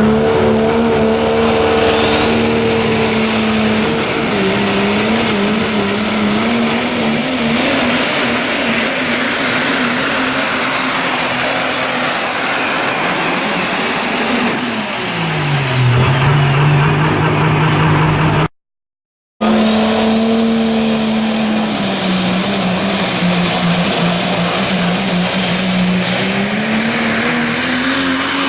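Super stock diesel pulling truck under full load, the engine note steady under a high turbocharger whistle that climbs and holds. About halfway the whistle falls and the engine note drops as the truck lets off. After a brief cut, another truck's run: steady engine note with the turbo whistle rising again.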